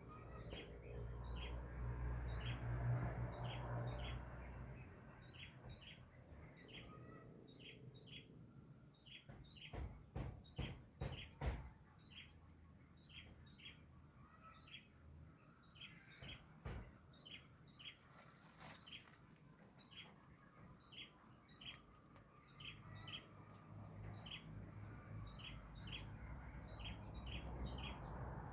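A small bird chirping over and over, short high notes in quick twos and threes, with a low rumble near the start and end and a few knocks about ten seconds in.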